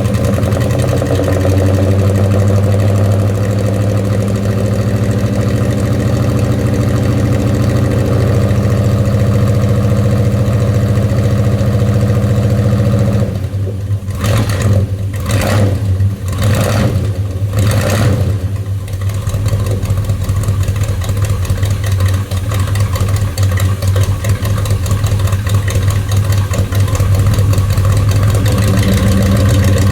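1984 Chevy K20's 350 small-block V8 idling steadily on stock manifolds with true dual exhausts and Magnaflow mufflers. Partway through, the engine note breaks up into about four short surges, then settles back into a less even idle that steadies again near the end.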